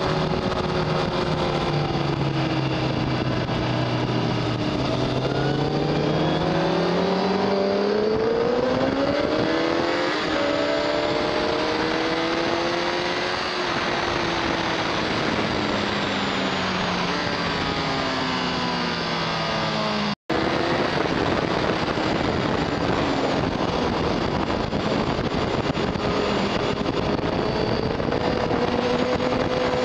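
2006 Honda CBR1000RR Fireblade's inline-four engine at speed on track, its pitch climbing hard under acceleration and falling away on the brakes, over steady wind rush. The sound drops out for an instant about two-thirds of the way through.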